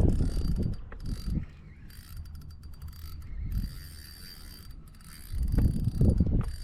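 Fishing reel being wound, its gears clicking rapidly, over low bumps and rubbing from handling the rod and line on the kayak.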